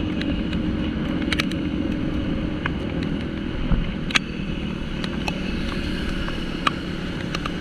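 Yamaha Aerox scooter engine running steadily at riding speed, with wind rushing over the microphone. Scattered sharp ticks sound through it.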